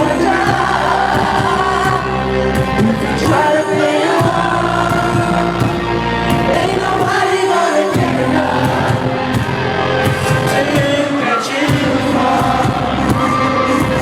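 Live R&B concert music: a male singer over a band with heavy bass, with the crowd singing along. The deep bass drops out briefly a few times.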